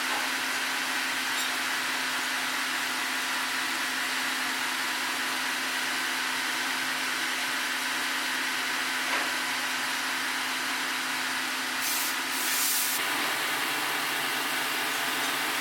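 Sawmill running steadily while cutting a log, a continuous machine noise with a steady hum; the hum drops out and the machine noise changes character about thirteen seconds in.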